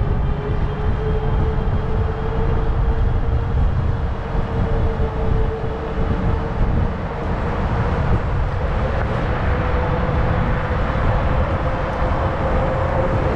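Wind buffeting the microphone on a moving Zota Zephyr fat-tire e-bike, with a steady whine underneath that drifts slightly up in pitch.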